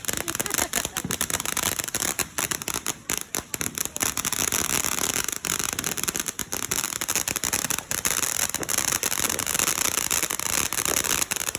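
Fireworks crackling: a rapid, dense string of small bangs and pops that keeps going without a break.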